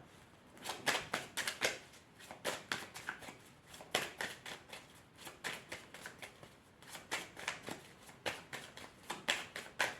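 A deck of cards being shuffled by hand: a run of quick, irregular flicks and taps.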